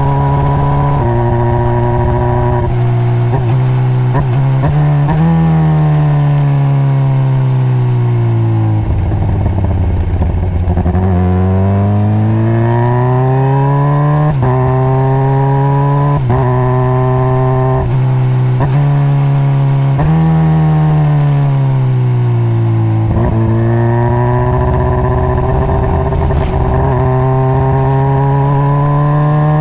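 2021 Honda CBR600RR's inline-four engine with stock exhaust, ridden through the gears. The revs step down at each upshift, fall away twice under engine braking as the bike slows, then climb again through several more upshifts.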